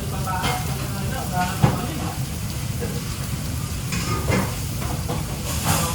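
Food sizzling in a pan in a busy kitchen, with a few sharp clanks of utensils or pans over a steady low hum.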